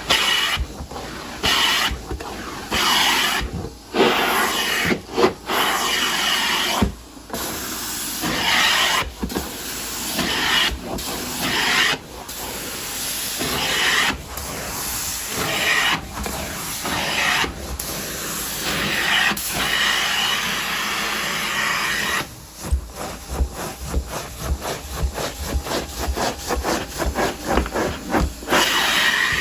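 Repeated hissing, rubbing strokes of carpet-cleaning equipment worked across carpet, each stroke a second or two long with short gaps between. The strokes turn quick and short in the last several seconds.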